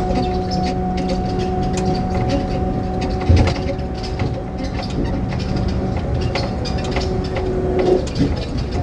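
Inside a moving rail car: a steady motor hum over running rumble and light rattles, with a sharp thump about three seconds in. The hum's lower tone fades out about six seconds in.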